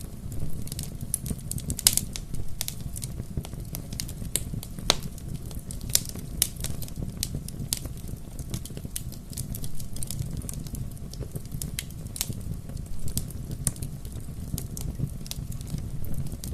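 Bonfire crackling, with irregular sharp pops and snaps over a steady low rumble of burning.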